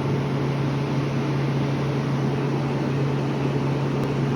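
Large machine fan running steadily: a constant low hum under an even rush of air.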